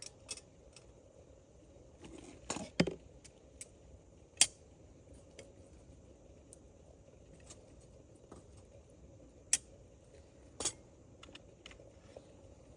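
Scattered light clinks and knocks of metal camp gear being handled: a few close together about two and a half seconds in, then single sharp clinks near the middle and twice more near the end, over faint steady background noise.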